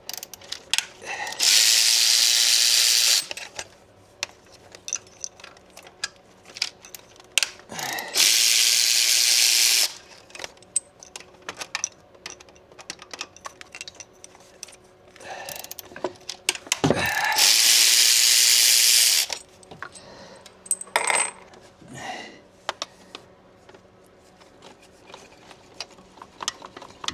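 Three loud bursts of hissing compressed air, each about two seconds long and cutting in and out sharply, with metal tools clinking and clicking in between.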